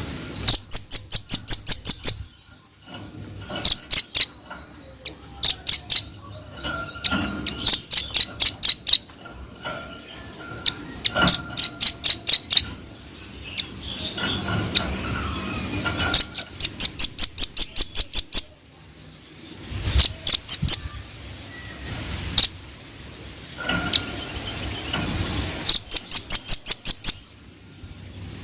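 Velvet-fronted nuthatch (red-billed nuthatch) calling in rapid-fire trains of sharp, high notes, each burst lasting a second or two and repeating again and again with short pauses between.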